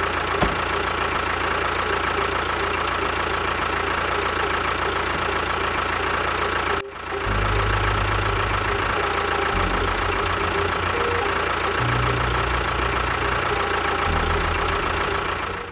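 A small motor running steadily with a constant whine. It breaks off briefly about seven seconds in, then carries on with a heavier, uneven low rumble.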